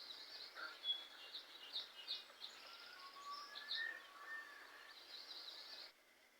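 Faint birds chirping and whistling over light outdoor background noise, with quick high chirps throughout and a few longer, lower whistles in the middle. It stops shortly before the end.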